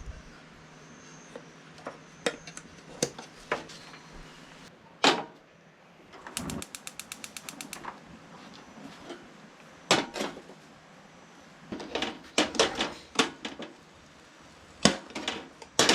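Scattered clicks, taps and knocks of utensils and dishes being handled during cooking, with a quick run of evenly spaced clicks a little before halfway and a cluster of knocks later on.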